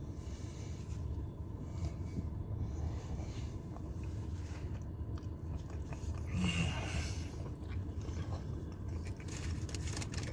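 A person chewing and biting food close to the microphone, over a steady low hum. A louder bite or crunch comes about six and a half seconds in.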